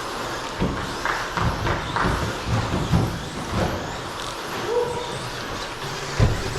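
Electric RC stadium trucks racing on a track: a steady background of motors and tyres, broken by repeated thuds of trucks landing jumps and hitting the track.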